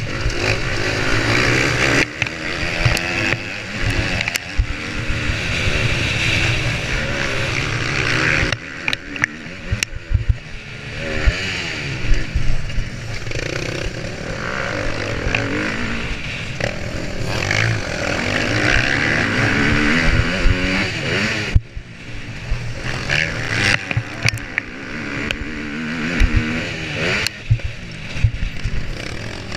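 Motocross bike engine revving hard and backing off again and again, its pitch rising and falling, with frequent knocks and rattles. The engine note drops away suddenly about a third of the way in and again about three-quarters through.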